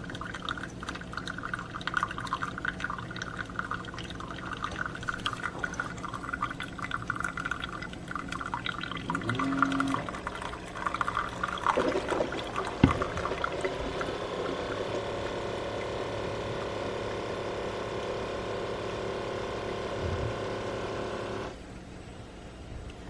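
Single-serve pod coffee maker dispensing coffee into a mug: spattering and dripping at first, then a steadier stream whose pitch rises slightly as the cup fills, cutting off suddenly near the end. A single click comes about halfway through.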